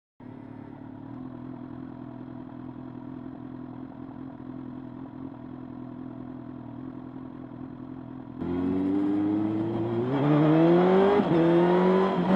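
Motorcycle engine running steadily at low revs, then louder from about eight seconds in as it accelerates, the pitch rising. Near the end the pitch drops briefly and climbs again.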